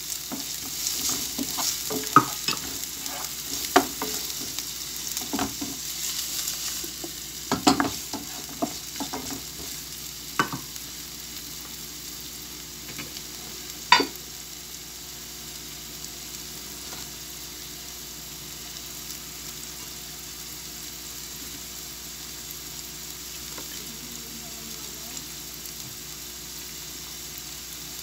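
Sliced onions and garlic sizzling in hot oil in a frying pan, with a wooden spatula stirring and knocking against the pan for about the first ten seconds. After that the sizzle goes on alone, broken by one sharp knock about halfway.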